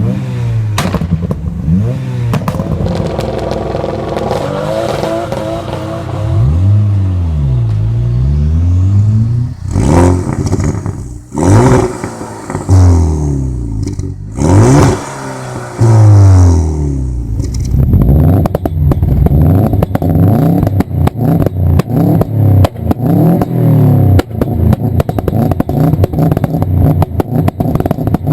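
Tuned car engine revved up and down over and over, with loud exhaust bangs partway through. After about eighteen seconds it gives way to a steady engine note with rapid, continuous popping and crackling from the exhaust.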